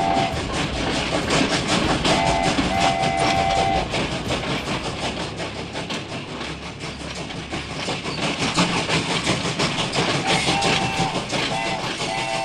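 Train sound effects: a fast, continuous clickety-clack of wheels over rail joints, with short two-tone horn blasts about two seconds in and a few more near the end.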